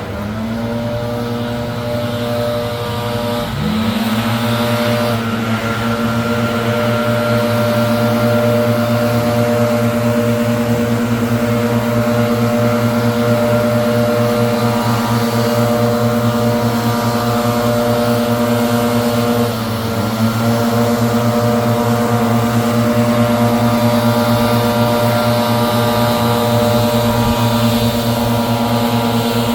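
Gas-powered leaf blower running loud at steady high throttle. The engine dips and climbs back up a few times: near the start, about three and a half seconds in, and around twenty seconds.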